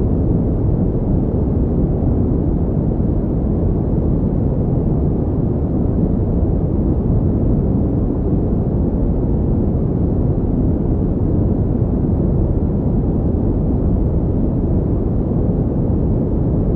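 Continuous pink noise: a steady, unchanging rush with most of its weight in the low end, which makes it sound deep and muffled rather than hissy.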